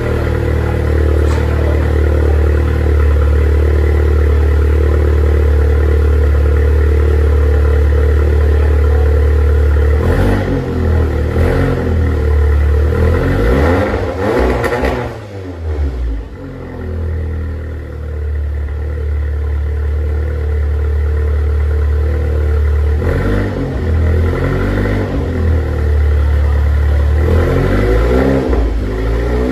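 Seat Leon Cupra's turbocharged four-cylinder engine through a catless 3-inch downpipe, idling steadily and then revved in a series of short blips after about ten seconds. It settles back to idle and is blipped again a few times later and near the end.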